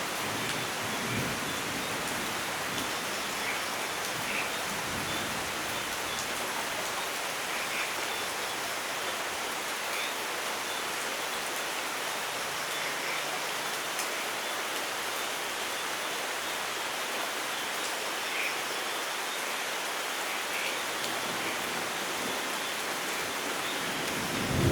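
Steady rain falling, an even hiss with occasional drop ticks. At the very end a low thunder rumble starts to build.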